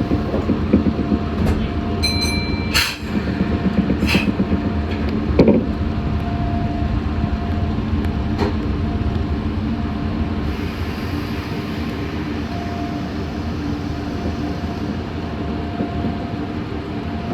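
Meitetsu 6500 series electric train running on the line, heard from inside the car: a steady rumble of wheels on rail under a steady hum, with a few knocks in the first six seconds and a brief high beep about two seconds in.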